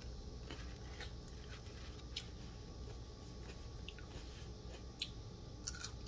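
Faint chewing of raw ripe bitter melon (ampalaya): scattered soft, wet mouth clicks about a second apart over a low steady room hum.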